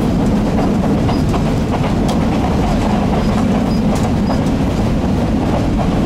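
Passenger train running, heard from inside a carriage: a steady, loud rumble of the wheels on the track, with a few faint clicks and rattles over it.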